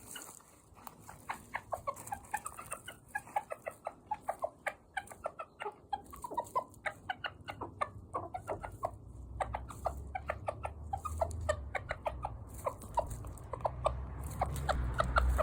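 Japanese bantam (chabo) rooster making a long run of short, high clucking notes, several a second, a soft cute-sounding chatter rather than a crow.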